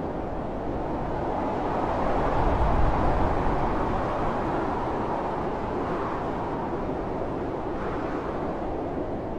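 Blizzard wind blowing steadily in a dense rushing noise, swelling into a stronger gust with a low rumble a couple of seconds in, then easing back.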